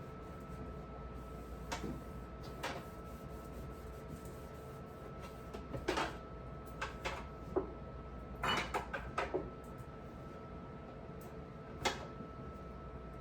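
Scattered knocks and clatter of household containers or drawers being handled and set down, about ten in all with a cluster around the middle, over a steady hum.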